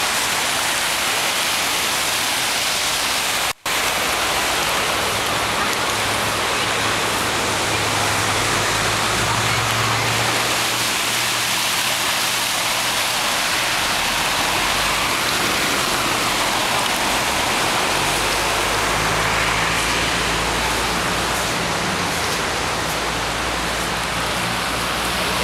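Heavy rain pouring steadily onto a flooded road and parking lot. Cars drive through the deep floodwater, adding a low engine hum in the middle and again near the end. The sound cuts out for an instant about three and a half seconds in.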